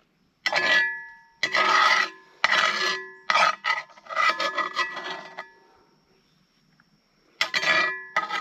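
Repeated rasping scrapes on metal cookware with a faint metallic ring, about six strokes in quick succession, a pause of about two seconds, then two more near the end.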